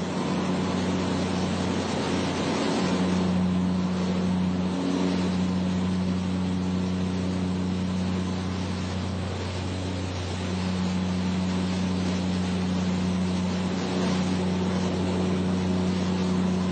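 Steady drone of an Embraer EMB-110 Bandeirante's twin Pratt & Whitney PT6A turboprops heard inside the cockpit: a constant low propeller hum under a rushing airflow noise.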